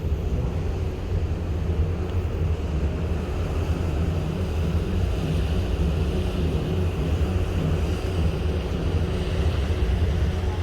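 Steady low drone of a ship underway, with a constant haze of wind and sea noise over it.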